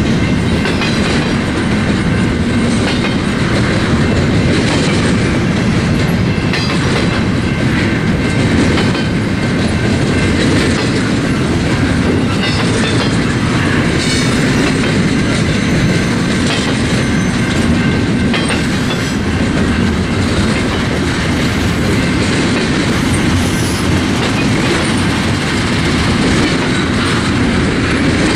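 Freight train's cars rolling steadily past, steel wheels clicking over the rail joints.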